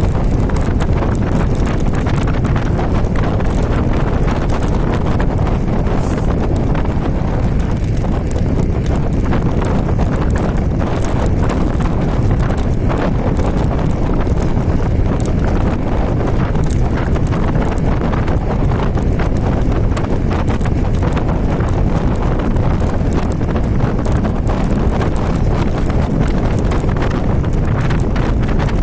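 Ride noise from an electric scooter with a 10-inch hoverboard hub motor: steady wind rush on the microphone and a dense, uneven clatter of the scooter rattling over the ground.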